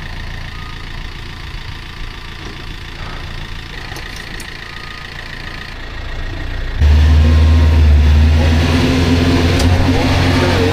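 Tractor engine running steadily at a low idle, then about two-thirds of the way through it suddenly gets much louder and carries on as a steady low drone.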